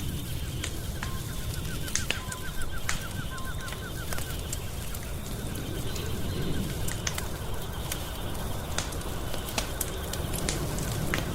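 Wood fire crackling and popping, with irregular sharp snaps over a steady low rumble of the flames.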